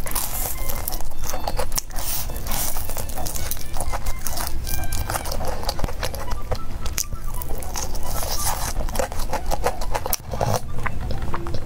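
Close-up crunching of crispy breaded fried chicken being bitten and chewed: a dense run of irregular crackly crunches, over background music.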